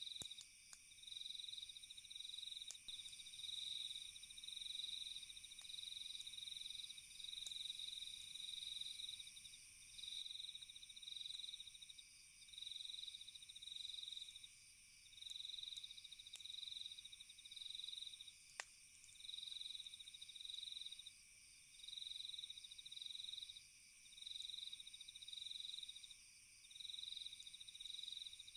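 Night chorus of crickets: a steady high ringing with one louder trill that repeats about every 1.3 s, each lasting about a second. A few faint crackles from the campfire, one a little sharper about two-thirds of the way in.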